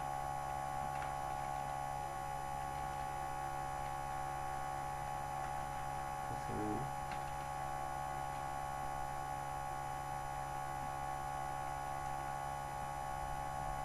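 Steady electrical hum and whine made of many constant tones, with a few faint clicks and a brief low murmur about six and a half seconds in.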